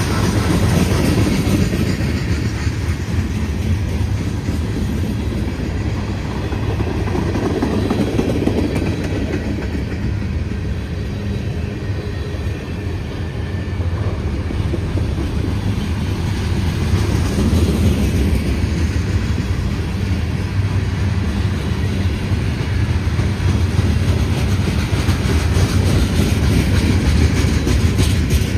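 Mixed freight train's cars rolling past, a steady low rumble with wheels clicking over the rail joints, as the train slows down.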